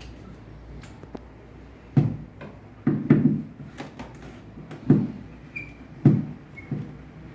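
A series of dull knocks and thumps, about five over a few seconds, with small clicks between them, like something being handled or a panel being knocked.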